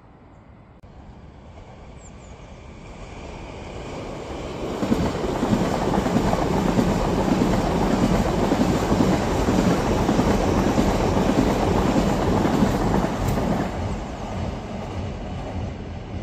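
Electric commuter train passing on the tracks: the wheel-on-rail rumble builds as it approaches, stays loud for several seconds as the carriages go by, then fades as it moves off.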